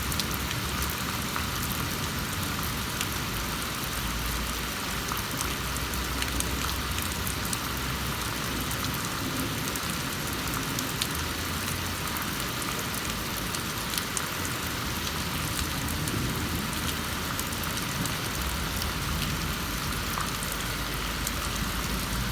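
Steady heavy rain falling during a thunderstorm, with scattered drips and patters on surfaces.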